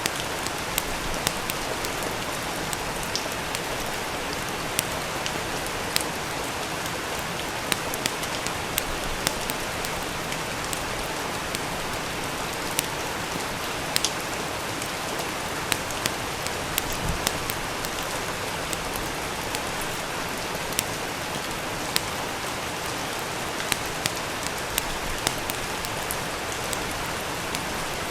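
Steady rain falling, with sharp, irregular crackles and pops of a wood fire in a fireplace.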